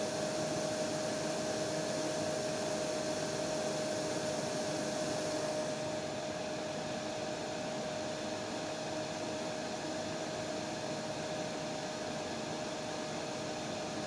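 Electric hair dryer running steadily: a full, even rush of air with a steady humming tone. About six seconds in, the highest part of the hiss drops away and the sound gets slightly softer.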